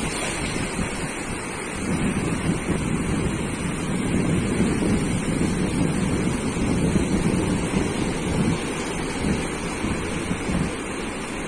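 Sea waves breaking and washing up on a sandy beach as a continuous surf wash, swelling louder about two seconds in, with wind rumbling on the microphone.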